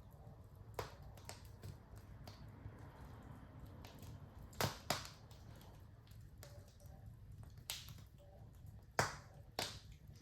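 Wood fire in a fireplace crackling: irregular sharp pops and snaps, the loudest a pair near the middle and one near the end, over a faint steady low rumble.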